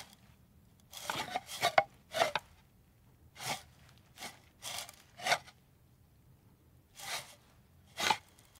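A tortoise scuffing and scraping over dry dirt as it crawls: about a dozen short, dry scrapes at uneven intervals.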